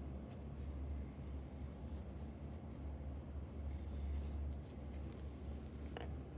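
Graphite pencil scratching and shading on paper, over a steady low hum, with a short tap near the end.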